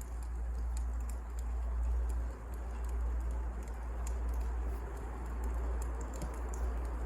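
Wood fire crackling: irregular sharp snaps and pops over a steady low rumble and hiss.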